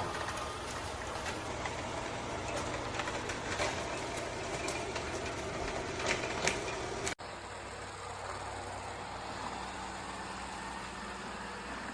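Robot vacuum running, a steady motor hum with small ticks and clicks. About seven seconds in the sound cuts off for an instant and resumes as a smoother, steadier hum.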